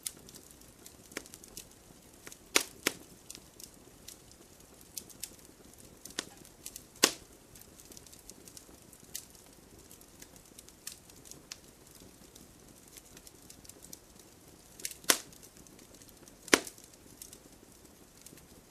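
Wood campfire crackling: irregular sharp pops and snaps over a faint low hiss, with a few louder pops, two of them close together about 2.5 s in, and others about 7 s in and near the end.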